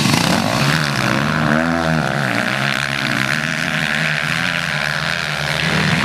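Motocross motorcycle engines running hard at high revs. The pitch rises and falls about two seconds in, then holds a steady high whine.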